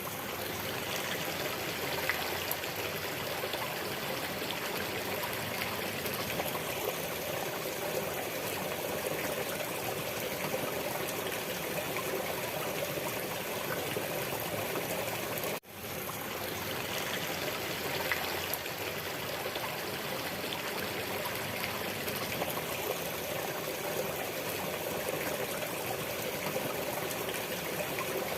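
Flowing water, like a trickling stream, running steadily. About fifteen seconds in it cuts out for a moment and fades back in.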